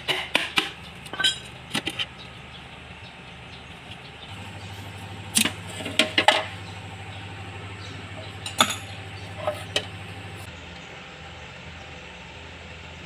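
Metal tools clinking and knocking against metal parts in a series of short, sharp strikes, with a steady low hum from about four seconds in until about ten seconds in.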